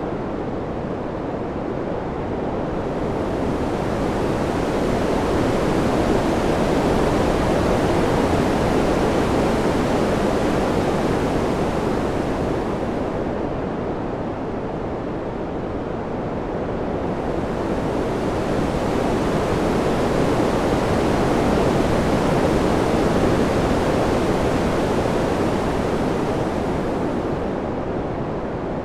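Wind sound: a steady rushing noise that rises and falls in two slow swells, the hiss getting brighter as each swell peaks and dulling between them.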